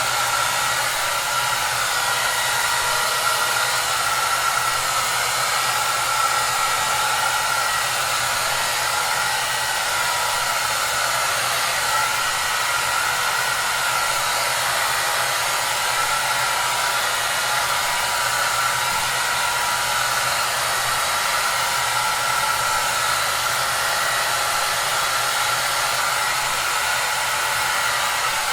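Hair dryer running steadily: an even rush of blown air with a faint steady motor whine, unchanging throughout.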